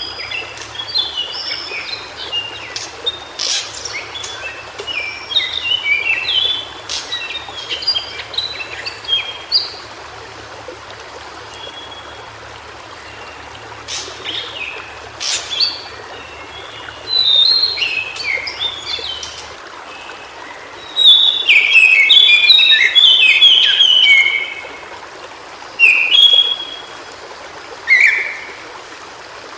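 White-browed shortwing singing in bursts of rapid, jumbled high notes. The loudest phrase comes about two-thirds of the way in. A steady rush of running water lies underneath.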